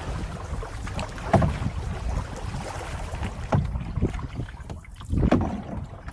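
Canoe paddle strokes splashing in river water, uneven, with a few louder splashes. Wind rumbles on the microphone underneath.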